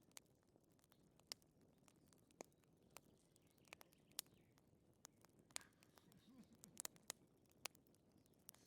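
Fireplace wood fire crackling faintly: scattered, irregular sharp pops and snaps over a low hiss.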